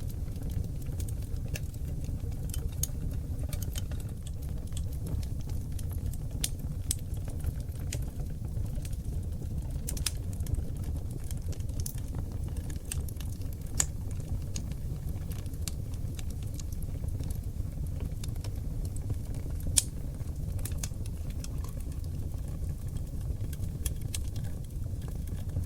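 Oak logs burning in a wood fireplace: a steady low rumble of flames under frequent sharp crackles and pops, with two louder pops about 14 and 20 seconds in.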